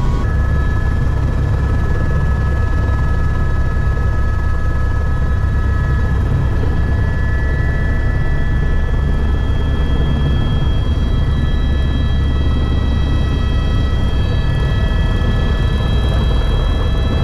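Helicopter running in flight: a loud, steady low drone with several steady high-pitched whine tones over it.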